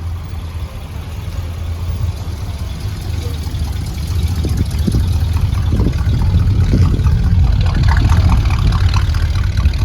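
A car engine idling, getting louder over the second half.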